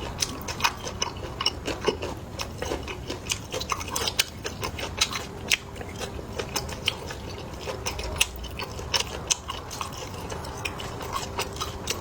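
Close-up chewing and crunching of small fish, with many sharp, irregular crisp clicks several times a second.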